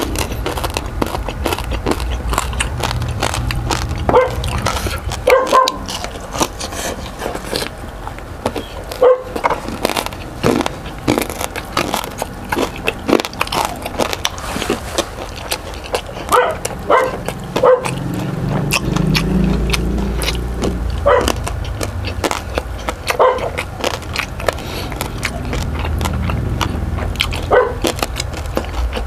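Close-miked chewing and mouth sounds of a person eating crispy lechon kawali (deep-fried pork belly) and rice by hand: many small crunches and wet clicks. A short pitched call cuts in about eight times, and a low rumble runs under it all.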